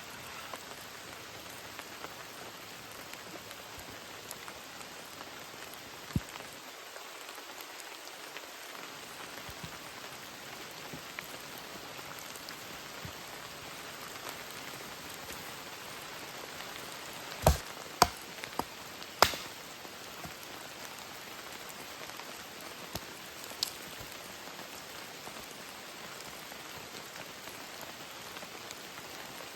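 Steady heavy rain falling, an even hiss of drops. A few sharp knocks cut through it, one about a fifth of the way in and a quick cluster of three or four about two-thirds of the way in.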